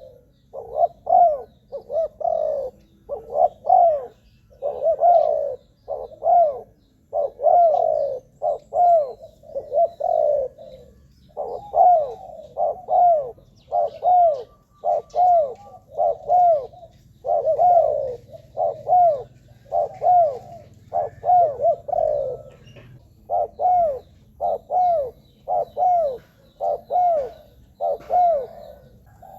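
Spotted dove cooing over and over, a string of short arched coos about two a second, broken by brief pauses about eleven and twenty-three seconds in.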